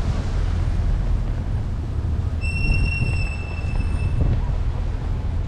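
City bus running past with a low engine and road rumble. For about two seconds in the middle its brakes squeal in a high, steady tone.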